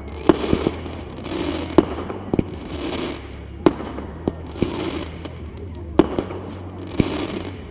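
Fireworks display: aerial shells going off in a string of about eight sharp bangs, with crackling bursts between them.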